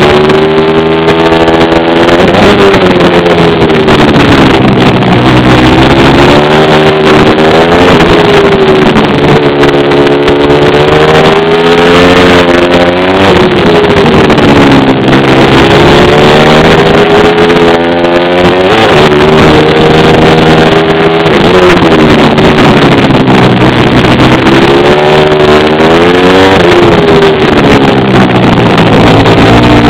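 Pit bike engine being ridden hard, revving up and dropping back over and over every two to three seconds as it accelerates and slows.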